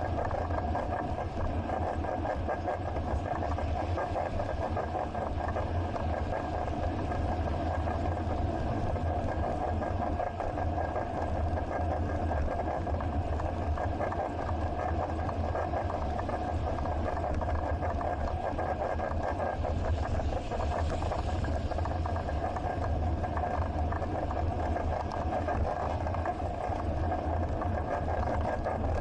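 Steady rumble of riding a bicycle through city streets, picked up by a bike-mounted action camera: wind on the microphone, tyre and road noise and surrounding traffic, unbroken throughout with a faint steady whine above it.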